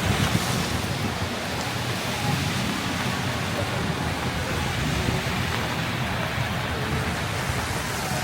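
Heavy rain falling steadily on a city street, an even hiss with the low rumble of road traffic beneath it.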